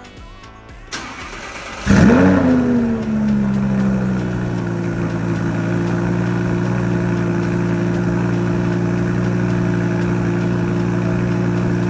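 Lamborghini Huracan Spyder's 5.2-litre V10 cold-starting: it fires about two seconds in with a loud flare of revs that rises and falls, then settles into a steady fast cold idle.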